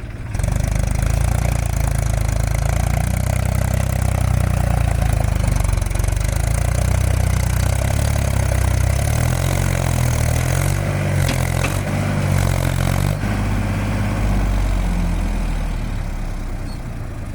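Tractor diesel engine running hard, its pitch rising and falling a few times in the middle, then easing off near the end.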